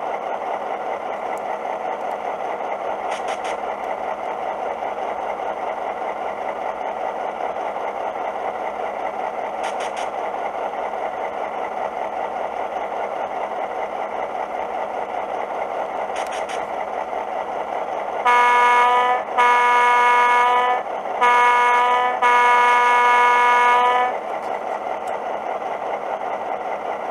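Soundtraxx Econami sound decoder in an HO scale GP7 playing a steady diesel idle through a small sugar cube speaker, with faint ticks every six or seven seconds. About two-thirds of the way through, the decoder's Leslie A125 air horn blows the grade-crossing pattern: long, long, short, long.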